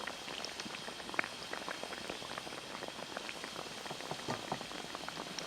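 Buns deep-frying in hot vegetable oil: a steady sizzle full of small, irregular pops and crackles.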